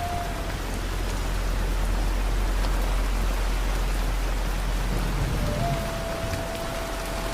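Steady rain falling, an even hiss, over a low rumble of distant thunder that swells in the first few seconds and eases off. A faint held tone, like a soft musical note, fades out just after the start and comes back near the end.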